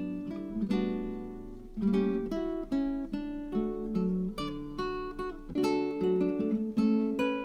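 Background music: an acoustic guitar plucking and strumming chords, notes ringing out between strokes.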